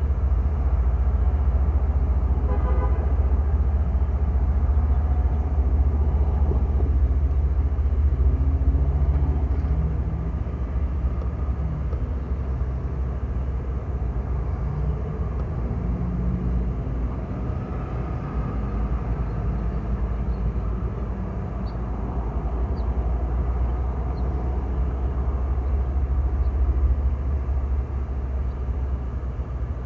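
Diesel freight locomotives running with a steady low rumble and shifting engine tones, and a short horn toot about two and a half seconds in.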